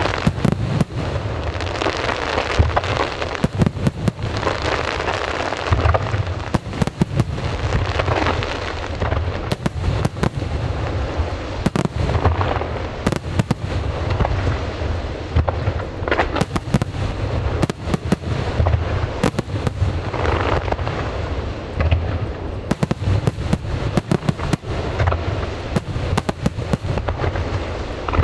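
Aerial fireworks display going off without pause: many sharp cracks and deep booms from shell bursts, over a continuous crackling rumble.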